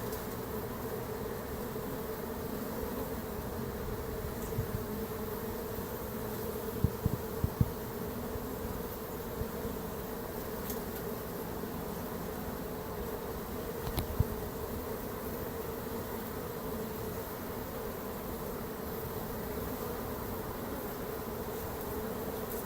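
A honeybee swarm buzzing as a steady hum, with workers fanning at the entrance of a nuc box to call their sisters in. A few brief thumps about seven seconds in and again around fourteen seconds.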